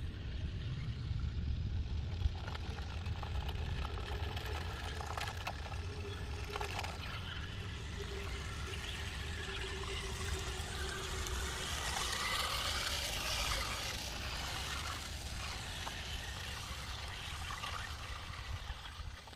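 Pickup truck wading through deep water: a steady low engine rumble with water splashing and trickling over it, the splashing loudest about twelve to fourteen seconds in.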